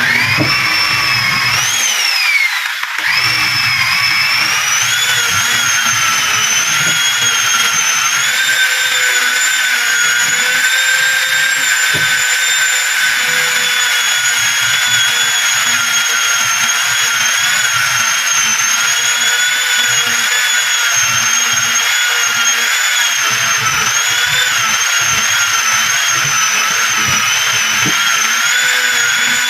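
A handheld power tool running with a loud, high-pitched whine that starts suddenly. Its pitch climbs and drops about two seconds in, and the tool dips for a moment before running steadily on.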